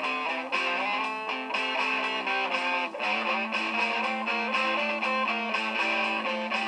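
Guitar played through a Boss loop station: several layered guitar parts, picked notes over sustained held notes, with the underlying harmony shifting about three seconds in.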